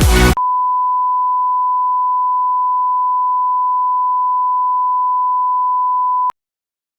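Electronic dance music stops abruptly, then a single steady electronic beep tone at one pitch holds for about six seconds and cuts off suddenly.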